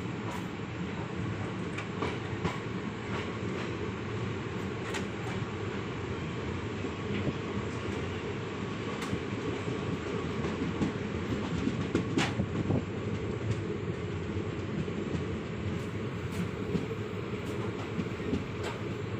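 Passenger train running on the rails: a steady low rumble of the coach with scattered sharp clicks from the wheels and track.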